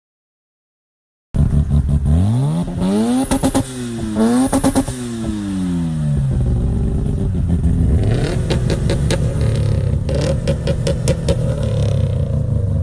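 Car engine revving up and falling back twice in quick succession, starting about a second in, then running steadily with some light clattering.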